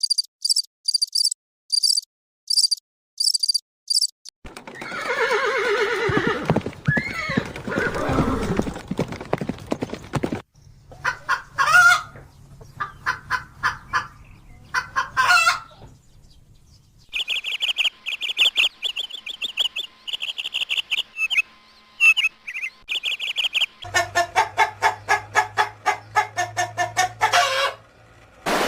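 A string of different animal calls, mostly birds and fowl. First come rapid high chirps, then a long, loud call. After that there is more scattered chirping, a steady shrill trill, and near the end a quick run of repeated calls.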